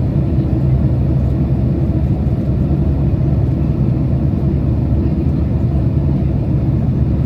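Steady low cabin rumble of a Boeing 767 airliner on approach, the engine and airflow noise heard from inside the passenger cabin, with a faint steady hum in it.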